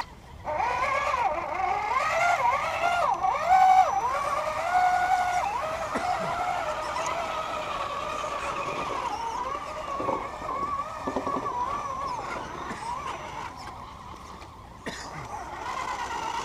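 Electric motor and gearbox whine of a radio-controlled scale rock-crawler truck, the pitch rising and falling as the throttle is worked. Loudest in the first few seconds, then running more evenly and fading toward the end.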